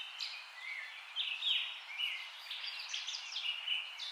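Songbirds chirping: many short, high chirps and falling whistles overlapping several times a second, over a steady hiss.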